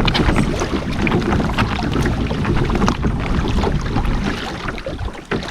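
Kayak on open water with wind rumbling on the microphone, water sloshing and small knocks from the hull. The rumble eases off near the end.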